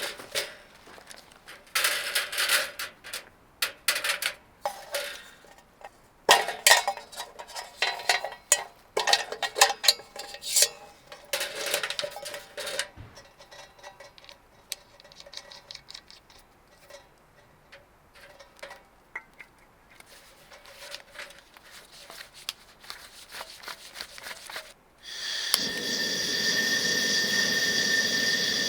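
Cookware and utensils being handled: repeated clinks and knocks of metal and glass, some ringing briefly. They come thick for the first dozen seconds, then sparser. Near the end a steady hiss starts and holds.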